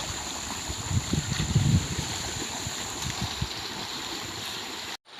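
River current rushing and gurgling, with louder low sloshing surges about a second in, over a steady thin high-pitched tone. The sound cuts off abruptly near the end.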